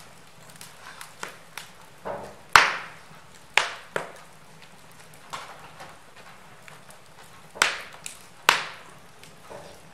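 Wood fire crackling in a fireplace: irregular sharp pops and snaps over a low hiss. The loudest pops come a few seconds in and again near the end.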